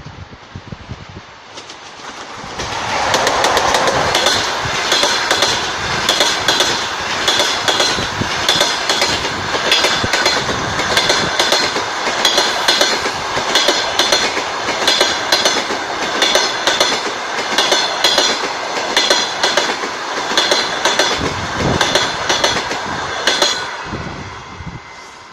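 ЭП20 (EP20) electric locomotive and its passenger coaches passing at speed. The pass-by swells in about two seconds in and brings a loud rush with a rapid, steady clickety-clack of wheels over rail joints, then dies away near the end.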